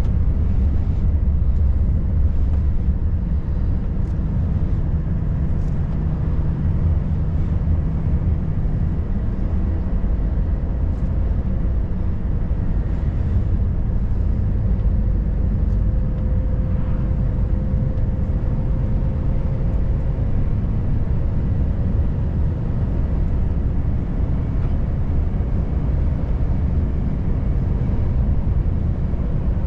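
Volvo FH540 truck's 13-litre six-cylinder diesel engine running steadily under way, with a dense low drone and road noise and no change in level. A faint, thin steady whine comes in for a few seconds past the middle.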